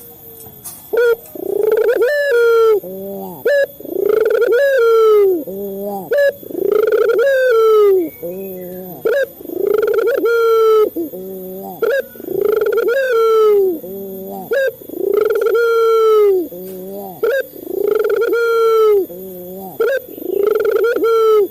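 Male puter dove (Barbary dove) cooing: loud, evenly repeated coo phrases about every two seconds, each a short note followed by a longer arched coo and a low hum.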